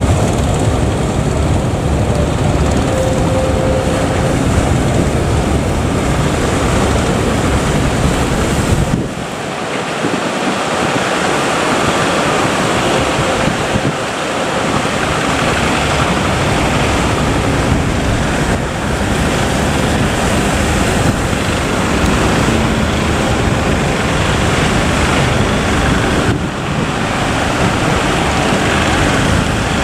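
Heavy sea surf breaking, with wind buffeting the microphone, a dense, steady roar that dips briefly a few times.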